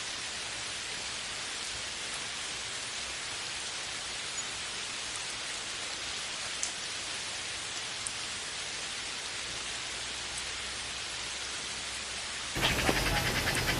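Steady rain: an even hiss with a few faint drop ticks. About a second before the end it cuts off abruptly into a louder, different recording.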